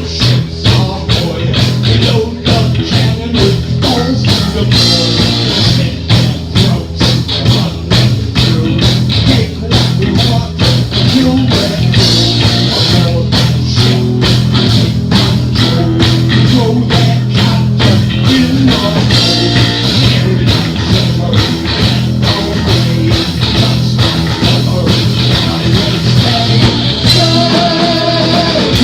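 Live heavy metal band playing loud: electric guitars and bass over a steady, fast drum beat.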